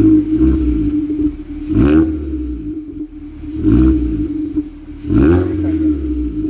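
Volkswagen Polo 1.6 four-cylinder engine through an aftermarket-tuned exhaust being blipped four times, the exhaust note rising sharply with each rev and settling back to idle in between.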